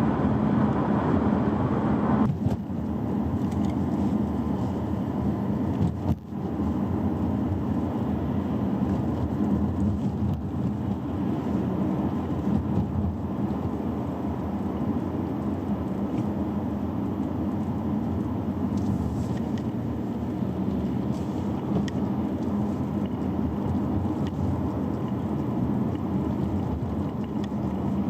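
Chery Omoda on the move: steady road and running noise with a low hum, broken by two brief dips in loudness, about two and six seconds in.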